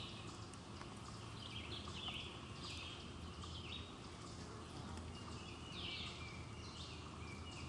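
Faint outdoor ambience with songbirds chirping, short high calls repeating every half second or so.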